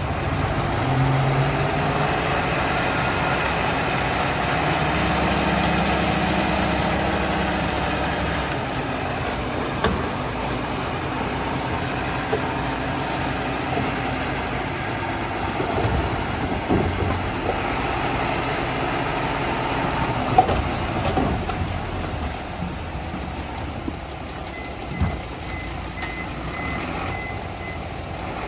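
Heavy diesel earthmoving machinery running, a bulldozer working with dump trucks. The engine drone is heavier for the first several seconds, then eases. A few sharp metallic clanks come through the middle, and a short run of high beeps sounds near the end.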